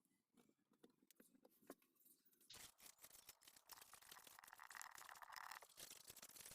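Faint soft ticks, then about two and a half seconds in a continuous rasping scratch starts and keeps going.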